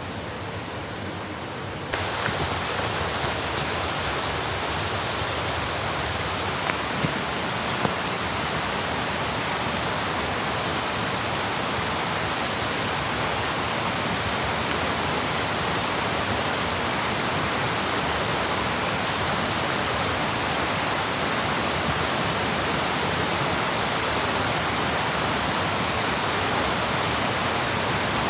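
Steady rushing noise across the whole range, like water or rain, growing louder and brighter about two seconds in, with a few faint clicks a few seconds later.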